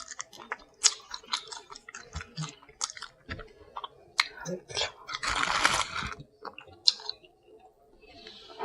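Close-miked eating: seafood shells clicking and cracking in quick irregular snaps, with chewing, and a longer, noisier stretch about five seconds in.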